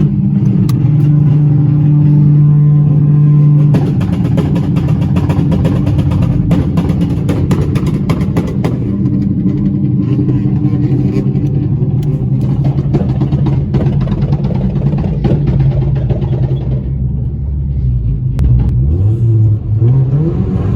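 Car engine running steadily, with a stretch of rapid clicks through the middle. Near the end the revs climb and then drop.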